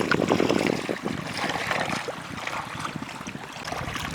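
Water sloshing and splashing, with scattered small knocks and clicks; busiest in the first second, then settling.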